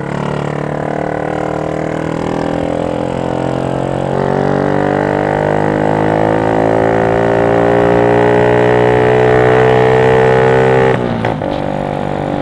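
Yamaha Jupiter MX 135's single-cylinder four-stroke engine breathing through a CLD X Monster aftermarket racing exhaust, pulling under throttle with a droning note whose pitch climbs slowly for about eleven seconds, then drops sharply near the end and carries on lower.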